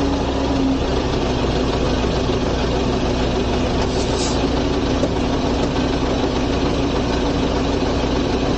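A vehicle engine running steadily under continuous road noise, with a low steady hum and a brief high hiss about four seconds in.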